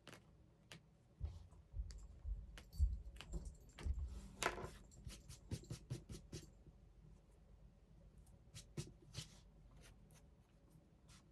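Small handling sounds of fabric pieces and sewing tools on a table: scattered light clicks and soft knocks, with a brief rustle about four and a half seconds in.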